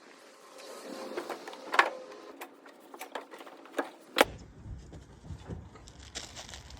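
Several sharp knocks and a light rattling clatter, as of hard objects being handled and set down; about four seconds in it gives way to a low steady rumble.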